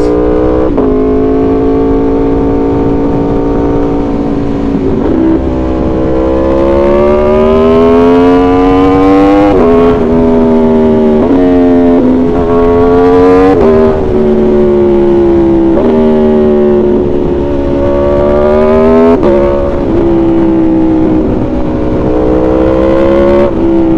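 Aprilia Tuono V4's 1077 cc V4 engine through an aftermarket shorty exhaust, pulling hard up through the gears: the note climbs in pitch, then drops suddenly at each gear change, several times over.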